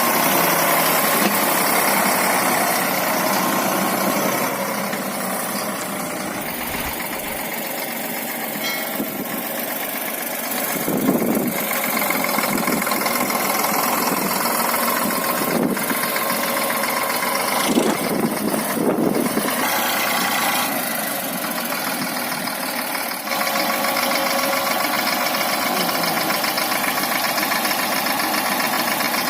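A heavy diesel engine running steadily, with a few short louder moments midway.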